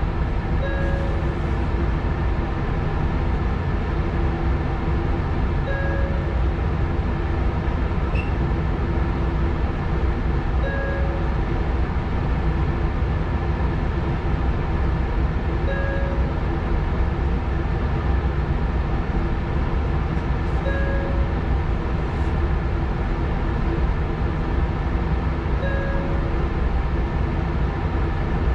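Sanyo 6000 series electric train standing still, with the steady hum of its onboard equipment heard inside the driver's cab. A short two-note beep repeats about every five seconds.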